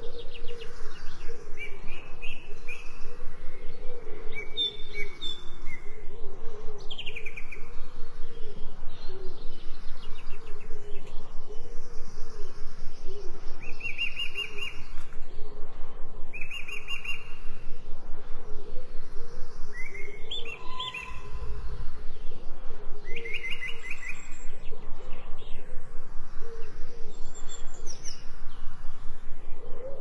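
Songbirds chirping and singing short trills, with several calls overlapping, over a fast, even pulsing sound lower down.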